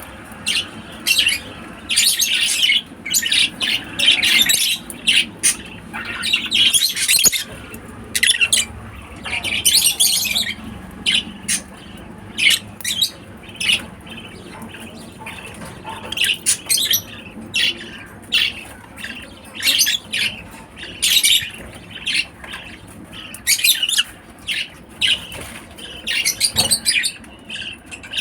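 Lovebirds calling: short, sharp, high-pitched chirps and squawks, coming irregularly and often several in quick succession.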